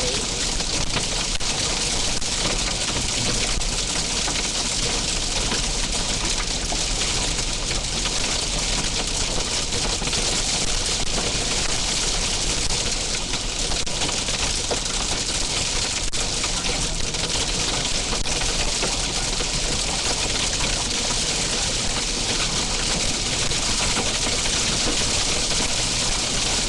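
Steady hiss of heavy wind-driven rain in a hailstorm, with a few faint scattered ticks that fit hailstones striking.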